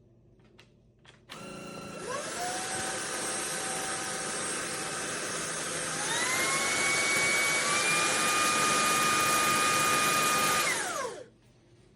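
VBUOO 580W cordless stick vacuum motor switching on about a second in, its hiss and whine stepping up in pitch and loudness twice as it is cycled through low, medium and high power, then spinning down with a falling whine as it is switched off near the end.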